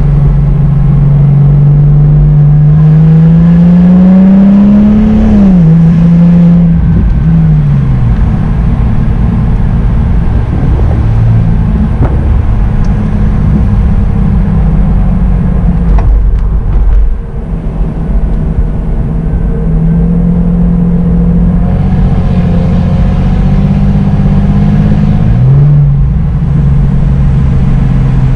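Porsche Boxster engine running as the car drives along: its note climbs steadily over the first few seconds, falls away twice soon after, rises again past the middle and drops once more near the end. Under it runs a steady rumble of road and wind noise.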